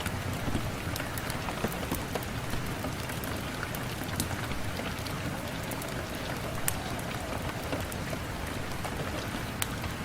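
Steady rain falling on a window: an even wash of rain noise with scattered sharp taps of drops at irregular moments.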